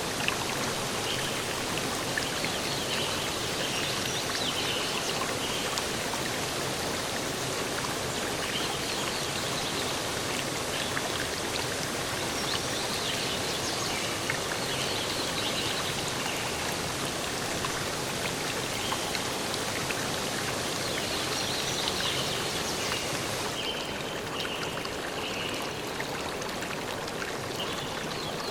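Steady rushing of a stream or waterfall, with small birds chirping and singing on and off above it. The highest hiss of the water thins out a little near the end.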